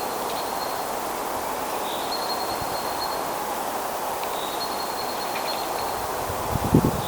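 Steady rustling outdoor noise with a high, held bird call repeating about every two and a half seconds. A couple of low thumps come near the end.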